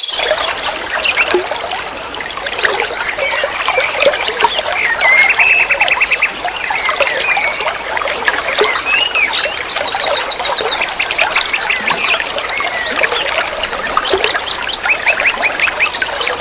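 Songbird chattering: a rapid, continuous run of chirps, whistled slides and fast trills, with a steady hiss underneath.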